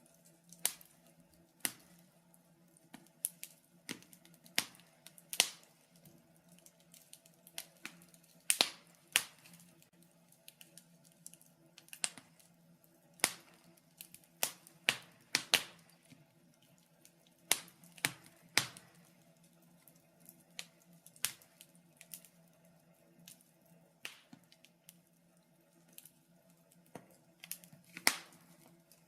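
Wood fire crackling in a fireplace: irregular sharp pops and snaps, a few each second with some louder than others, over a faint steady low hum.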